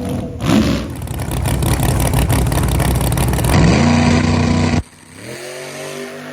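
Drag truck's engine at full throttle, dense and loud, its pitch climbing about three and a half seconds in before it cuts off suddenly near five seconds. A quieter engine follows, rising in pitch.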